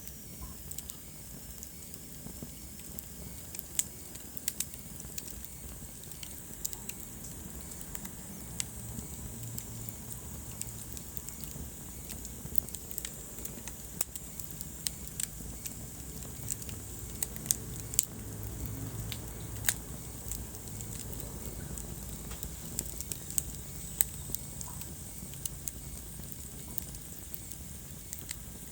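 Wood fire burning in a fireplace: a steady low rumble of flames under irregular sharp crackles and pops from the burning logs.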